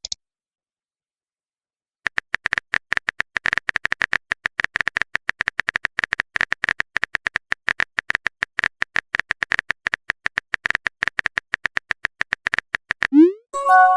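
Rapid clicking of a phone-keyboard typing sound effect, starting about two seconds in and running for roughly eleven seconds. It is followed near the end by a short rising chime.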